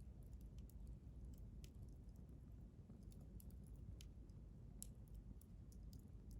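Wood campfire crackling quietly: faint, irregular pops and snaps over a low, steady rumble.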